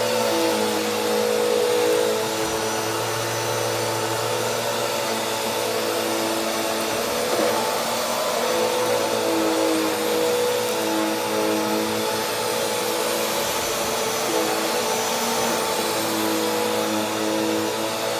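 Bissell PowerGroom pet vacuum running steadily, its motor tone wavering slightly now and then.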